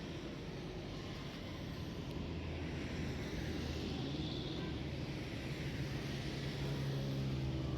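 Background traffic rumble with a motor vehicle engine passing, its low hum swelling in the second half.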